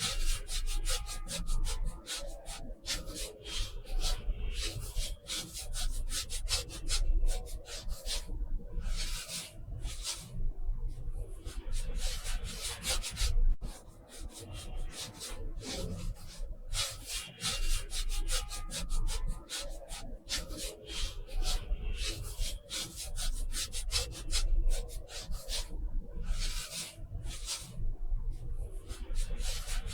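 Quick, repeated strokes of an art tool rubbing across paper, coming in uneven runs broken by short pauses.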